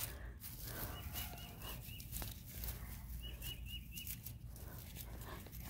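Faint animal calls in two short runs of high, quick, repeated notes, about five a second, the first about a second in and the second about three seconds in, over scattered light clicks and rustles.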